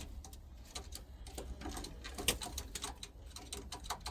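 Pigeons pecking at seed, a quick, irregular run of small clicks.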